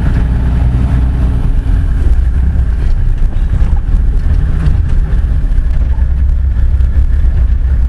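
Car driving along a road, with a steady low rumble of engine and road noise.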